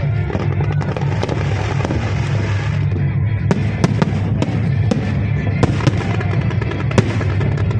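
Fireworks bursting and crackling over loud show music. Sharp cracks come thick and fast from about halfway through.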